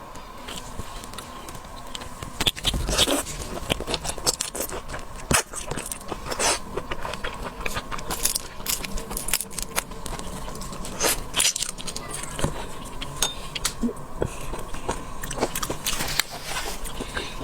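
Raw marinated shrimp being peeled and eaten close to the microphone: many sharp, irregular crackles and clicks of shell and wet chewing.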